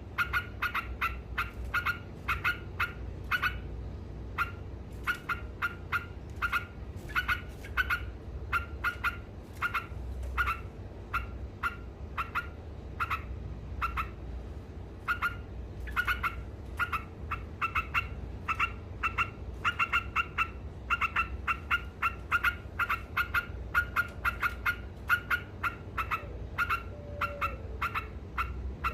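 Trucukan (yellow-vented bulbul) singing in rapid 'ngekek' style: a long run of short, sharp chattering notes, about two to three a second, in bouts with brief pauses, over a steady low hum.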